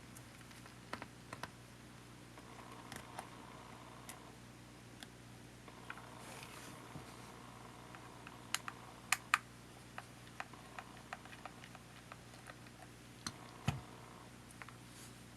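Irregular small clicks and taps of tools and plastic parts being handled while a compact camcorder is taken apart, a few sharper clicks standing out, over a faint steady hum.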